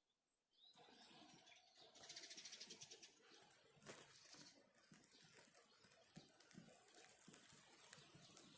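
Faint spring rain pattering, a steady hiss of many irregular drop ticks that starts about a second in and thickens briefly around two seconds in. A short bird chirp comes right at the start.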